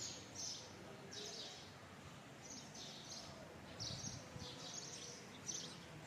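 Small birds chirping faintly, short high calls repeated irregularly every half second to a second or so, over a low steady background of outdoor ambience.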